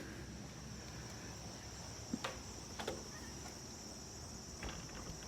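Insects chirring outdoors in a steady, high-pitched drone, with a few faint clicks about two, three and nearly five seconds in.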